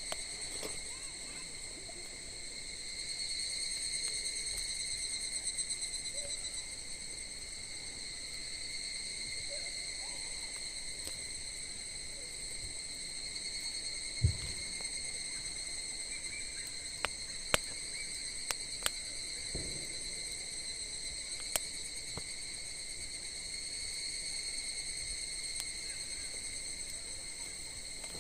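Crickets trilling steadily in a continuous chorus, with a handful of short, sharp pops from the burning wood fire around the middle.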